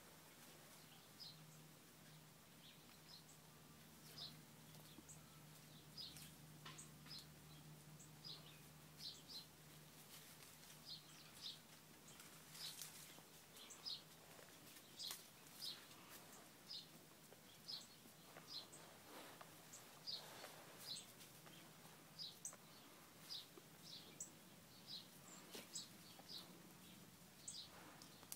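Small birds chirping faintly in a bamboo grove: a run of short, high, separate chirps, about one or two a second, over a faint steady hum.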